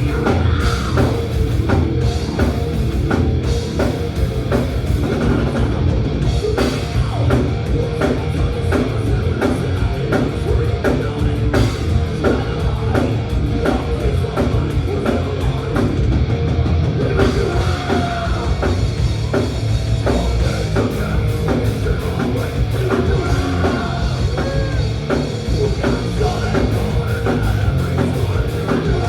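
Live thrash metal band playing at full volume: distorted guitars and bass over fast, steady drum-kit hits.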